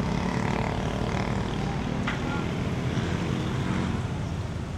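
Street traffic with a motor vehicle engine running close by, a steady low drone.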